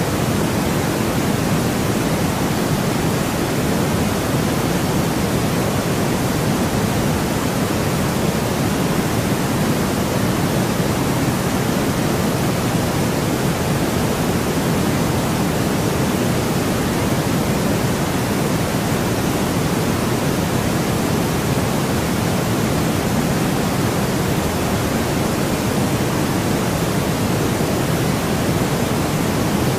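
Steady, unbroken white noise for sleep, an even rushing hiss weighted toward the lower-middle range, with no changes or events.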